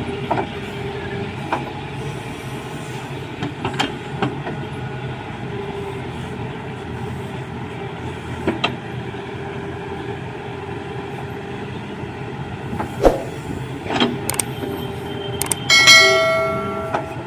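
JCB 3DX backhoe loader's diesel engine running steadily under work, with scattered metal knocks. Near the end comes one loud metallic clang that rings on and fades over about a second.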